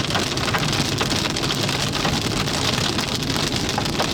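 Hailstones pelting the Jeep's roof and body in a dense, steady clatter of many small hits. The stones are hitting harder as they grow bigger.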